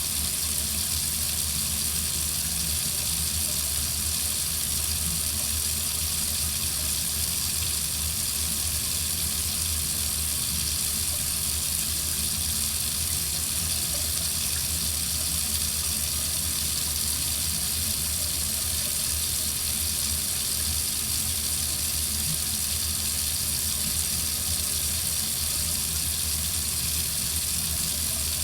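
Water running steadily from a faucet into a sink, a constant hissing splash.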